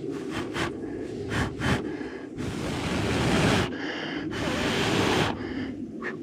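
A person blowing on a smouldering char-cloth ember in a jute tinder bundle to coax it into flame: a few short puffs, then two long blows.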